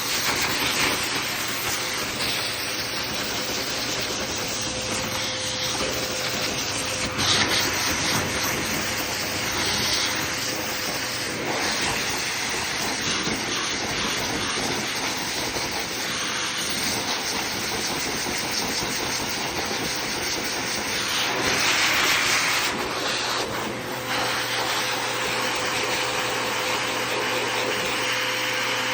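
Pet grooming dryer blowing air at a dog's coat: a continuous loud rushing hiss over a faint steady hum, swelling briefly about seven seconds in and again a little after twenty seconds as the airflow shifts.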